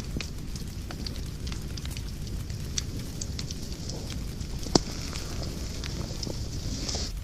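Wood fire crackling in a fireplace: irregular sharp pops and snaps over a low rumble and a steady hiss, with one loud pop just before five seconds in.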